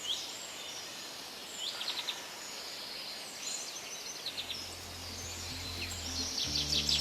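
Small birds calling in short, repeated chirping phrases over a steady hiss of outdoor ambience. A low, sustained music drone comes in about four seconds in, with more low notes added near the end.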